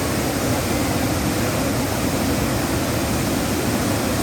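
Waterfall: water falling in a steady, unbroken rush, heaviest in the low end.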